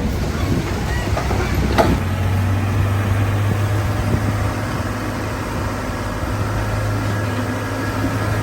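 Diesel engine of heavy earthmoving machinery running steadily with a low drone, and a single sharp knock about two seconds in.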